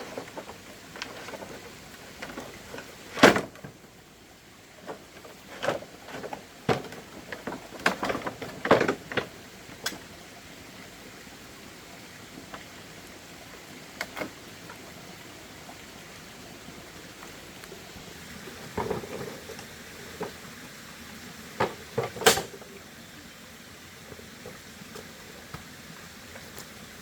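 Irregular knocks and clacks of objects being handled, a few sharp and loud, over a steady low hiss.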